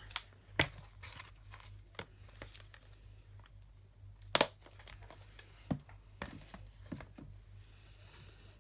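Light crinkling and tearing of paper and plastic with scattered sharp clicks and taps, as dimensionals (adhesive foam pads) are handled and their backing peeled off. Two sharper clicks stand out, one just after the start and one about halfway through.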